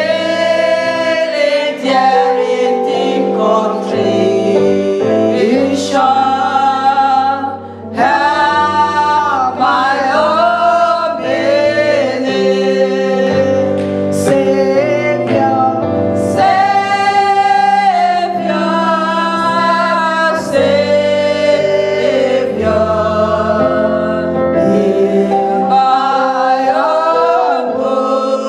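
Gospel choir singing a worship song over instrumental backing, with long held notes and a steady bass line.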